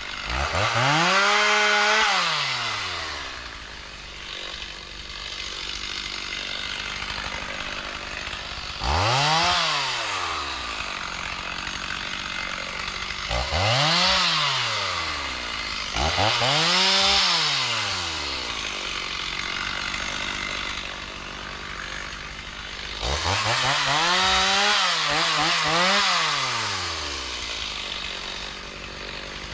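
Two-stroke chainsaw idling and revved up to full throttle five times, each burst lasting two to four seconds before the engine falls back to idle.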